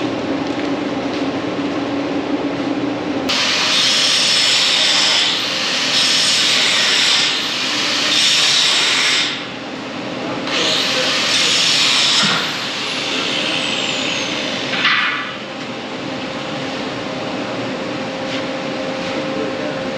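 Angle grinder grinding metal in several runs of a few seconds each, starting about three seconds in and stopping about fifteen seconds in, with the disc's whine falling as it winds down after one run. A steady machine hum runs underneath.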